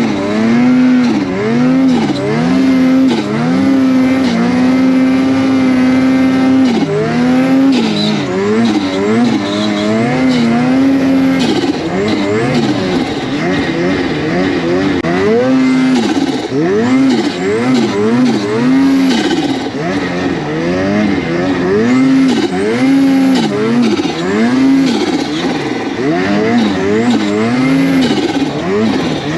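Snowmobile engine revving up and down over and over, sometimes holding a steady pitch for a second or two, as the sled is ridden through snow.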